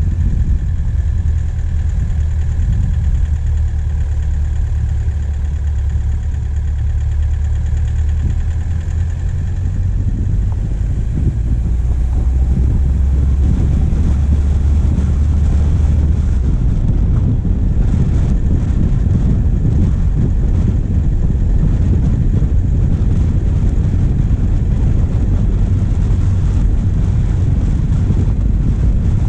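Diesel engine of a vehicle driving on a forest track, heard from a bonnet-mounted camera: a steady low hum, which gives way about halfway through to a rougher rushing noise as the drive goes on.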